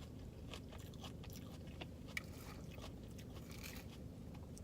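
A person chewing food, with faint mouth clicks and small crunches and one sharper click about two seconds in.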